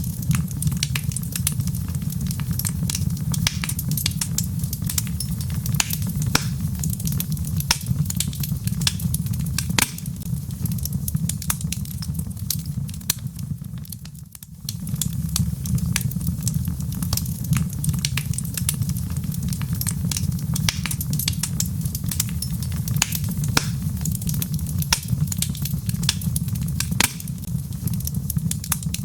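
Wood logs burning in a fireplace: frequent sharp pops and snaps over a steady low rumble of flames, which dips briefly about halfway through.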